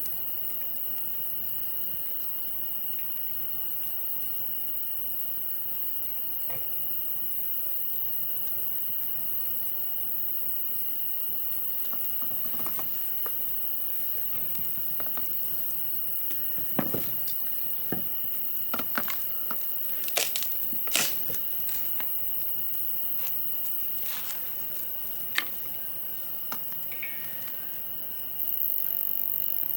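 Wood campfire burning, with a steady hiss and scattered sharp pops and crackles, most of them in the middle stretch. A steady high insect trill runs underneath, and the hiss grows louder near the end.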